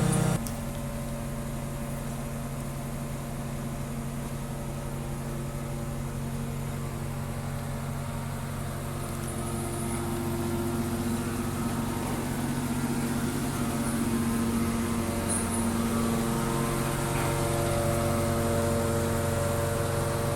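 Scania G410 truck's diesel engine running steadily. A louder running note cuts off abruptly just after the start, and from about halfway through the engine note slowly rises in pitch and level.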